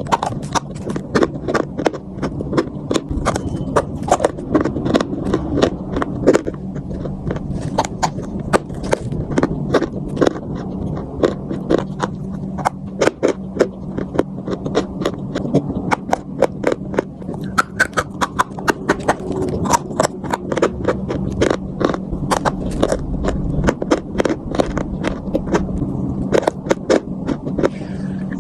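Close-up chewing and biting of chalk: sharp crunches follow one another a few times a second, over a steady low hum.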